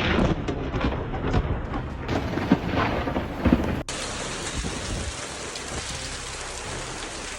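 Typhoon storm sound: gusting wind and driving rain with several sharp knocks. Just under four seconds in it cuts abruptly to a steady hiss of heavy rain.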